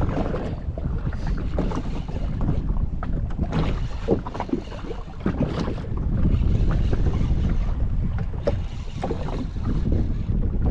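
Wind buffeting the microphone in a constant low rumble, with water slapping and splashing irregularly against a jet ski drifting on the open sea.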